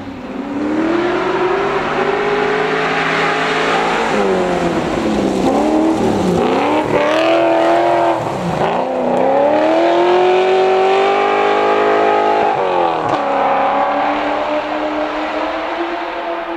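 Rally car engine running hard, its revs climbing in long pulls and dropping sharply, with a run of quick rises and falls between about four and nine seconds in and another sharp drop near thirteen seconds.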